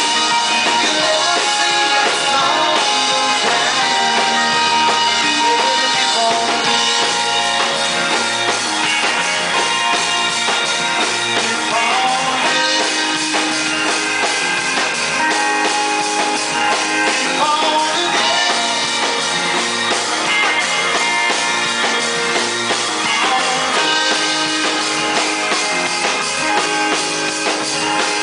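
Live rock band playing an instrumental break, with drum kit, guitar and bass driving a steady beat.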